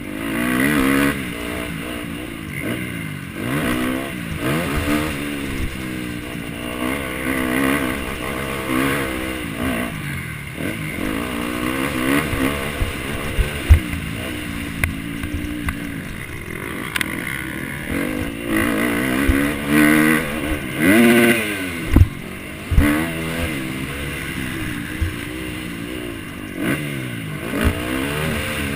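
Motocross bike engine revving hard, its pitch climbing and dropping over and over as the throttle opens and shuts through the turns and gear changes, with a few sharp knocks.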